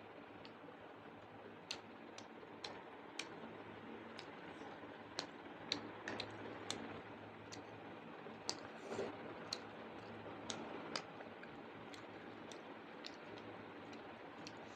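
Eating sounds heard close up: a run of small, sharp, irregular clicks and smacks, about two dozen spread through the stretch, over a faint steady background hum.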